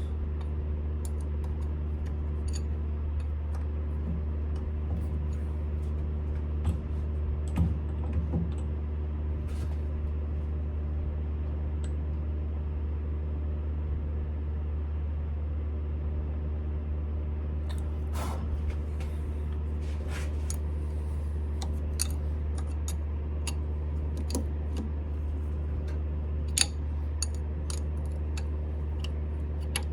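Scattered metallic clicks and clinks of a lathe chuck being worked by hand, its jaws and key tightening on a nut held by its flats, more of them in the second half. A steady low hum runs underneath.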